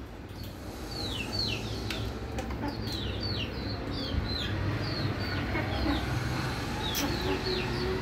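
Birds chirping: short, high chirps that slide down in pitch, several a second, with a pause a little past the middle. A low steady hum runs underneath.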